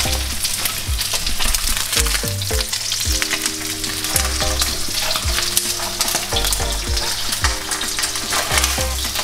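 Salted fish frying in hot oil in a pan: a steady sizzle with many small crackling pops.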